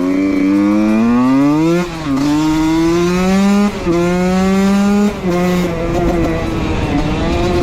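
Husqvarna WR 125 two-stroke enduro engine, race-tuned, running at full throttle under load: the pitch climbs, drops sharply as it shifts up about two seconds in and again near four seconds, then holds at high revs with a short dip a little after five seconds.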